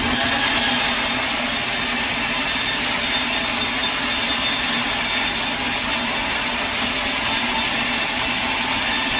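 A sawmill blade cutting steadily through a log over the mill's running motor. The cut starts right at the beginning, with a sudden rise in high-pitched saw noise.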